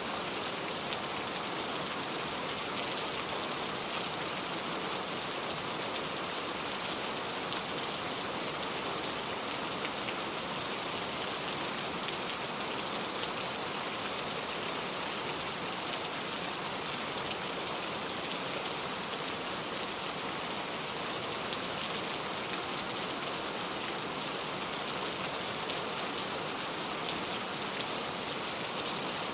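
Heavy rain pouring steadily, a dense even hiss with many fine drops pattering on a surface.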